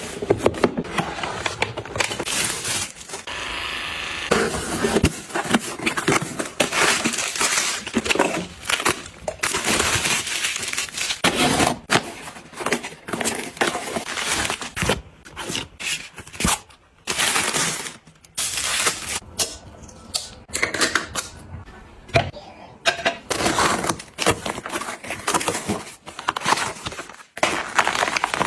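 Close-up handling of kitchen items: a busy run of clicks, knocks and clatter with rustling in between, as things are picked up, set down and arranged.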